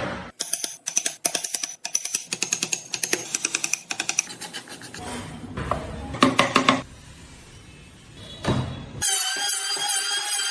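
A quick run of sharp knocks and taps, then a short noisy stretch with a few more knocks, followed by background music with a wavering melody starting about nine seconds in.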